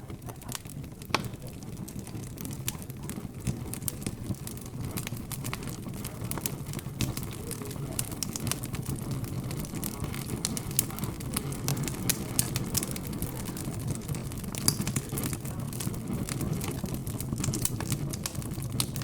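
Crackling fire with many irregular sharp pops and snaps, over a low steady hum of indistinct background chatter.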